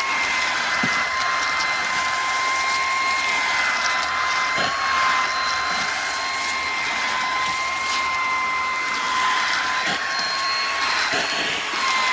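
Bissell PowerClean FurGuard cordless stick vacuum running steadily: a high, even motor whine over a rushing air hiss, with a few light knocks as it is moved about.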